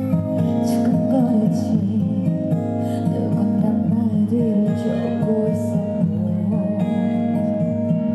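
A live band playing music, with a strummed acoustic guitar over sustained notes and a wavering melody line.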